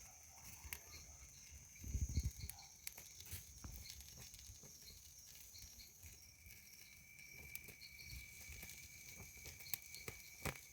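Faint crickets chirring in a steady high trill, with a second, lower trill joining a little past halfway. Scattered light clicks and a brief low rumble about two seconds in.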